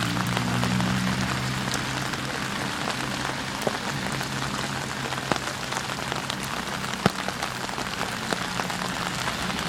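Steady rain falling, an even hiss with scattered sharp drop ticks, over a low steady hum that fades gradually.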